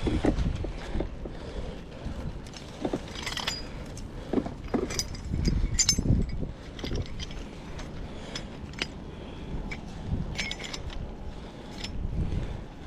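Irregular clinks, knocks and rustles of gear being handled, a few sharp clicks at a time over a low rumble.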